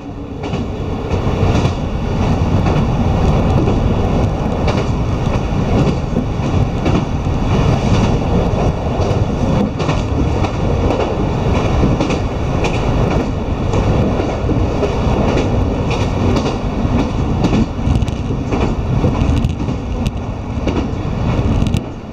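Diesel railcar running at speed, heard from inside the carriage: a steady loud rumble with irregular clicks of the wheels over the rails.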